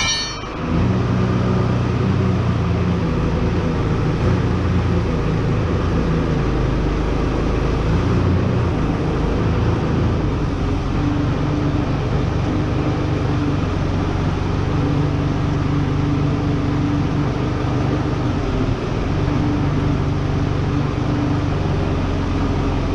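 A heavy machine's engine running steadily at an even speed.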